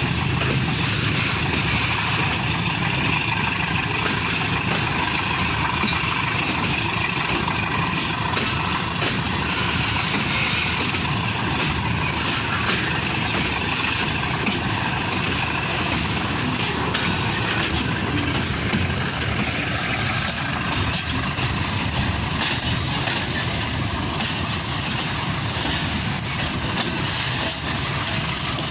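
Loaded ore freight train running by, a steady rolling noise with short clicks coming more often in the second half.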